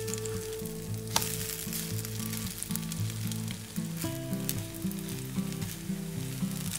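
Egg-soaked bread slices frying in ghee in a nonstick pan: a steady sizzle, with one sharp tap about a second in.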